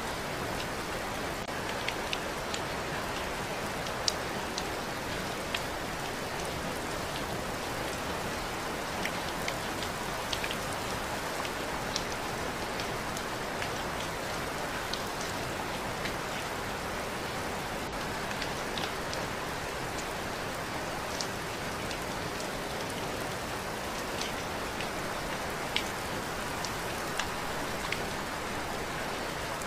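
Steady rain falling, an even hiss with scattered sharper drop ticks here and there.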